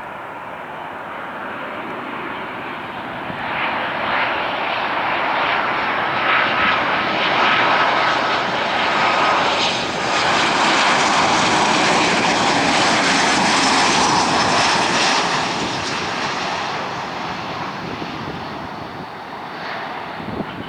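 Jet engines of a Boeing 737-800 airliner passing by: the engine noise builds, peaks about halfway through with a brief high whine, then fades away.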